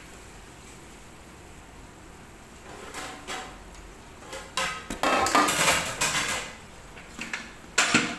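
Clattering and scraping of a utensil in a large metal cooking pot full of chicken pieces. Quiet at first, then a few knocks about three seconds in, a longer scrape about five seconds in, and a sharp knock near the end.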